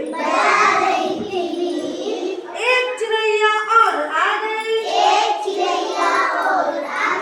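A child singing in a high voice, in short phrases.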